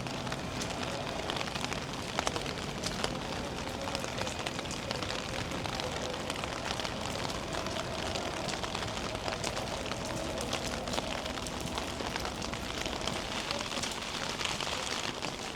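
Steady rain, falling as an even hiss with many sharp ticks of drops striking nearby surfaces.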